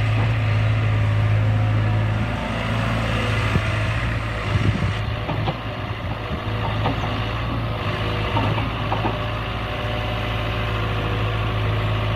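Diesel tractor engine idling with a steady low hum, with a few light knocks about halfway through.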